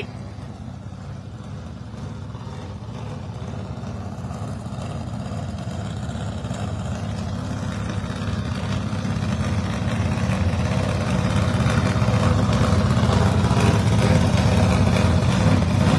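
Drag race cars' engines running at idle with a deep, steady rumble that grows gradually louder as they come closer.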